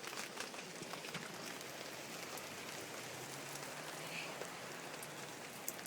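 Heavy rain falling steadily: an even hiss with scattered ticks of individual drops.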